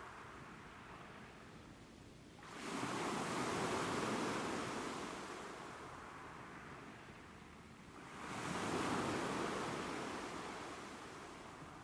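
Ocean waves breaking. Two waves come in, one about two and a half seconds in and one about eight seconds in. Each swells quickly into a rush of surf, then slowly washes away.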